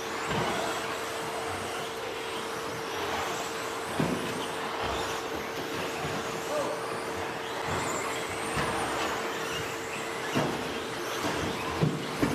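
Electric 2WD stadium-class RC trucks with 13.5-turn brushless motors racing on a dirt track: faint high motor whines rising and falling over steady tyre and track noise, with a few sharp knocks from the trucks.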